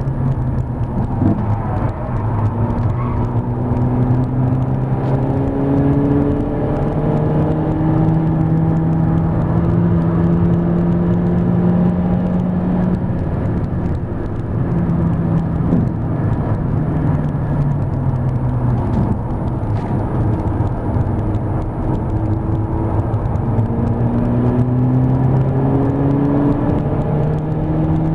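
Inside the cabin of a Mk5 VW Golf GTI at speed, its turbocharged 2.0-litre four-cylinder engine climbs in pitch through the revs, drops back about halfway through, then climbs again near the end, over steady tyre and road noise.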